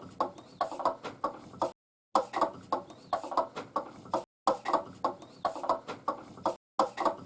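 Chicken clucking: a run of short clucks about two seconds long, broken off by brief dead-silent gaps and repeated several times over, like a looped clip.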